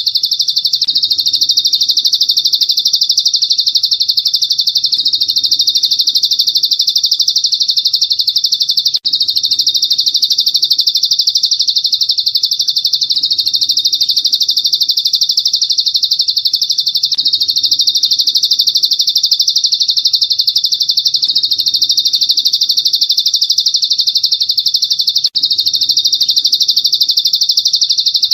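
Recorded songbird masteran track: a continuous, very rapid high-pitched trilling chirp, unbroken except for two brief gaps about 9 and 25 seconds in, where the recording loops.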